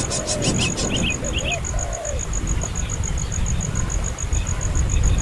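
A few short, high, rising cheeps from a baby bird in the first second and a half, over a steady high-pitched pulsing chirp of an insect, about eight pulses a second, and a low rumble.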